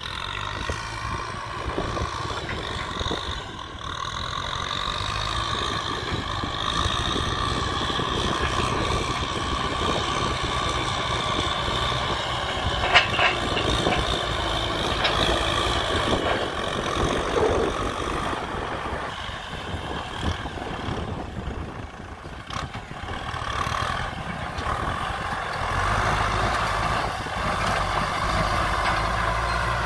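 Tractor diesel engine running steadily, with a sharp knock about halfway through.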